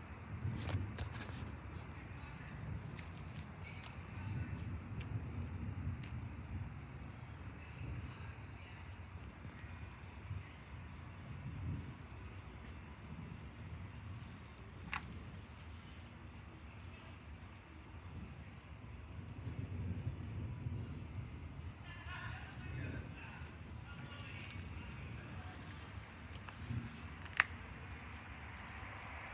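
A night insect chorus keeps up a steady high, pulsing trill. Underneath it a low rumble swells and fades, and there is a sharp click near the end.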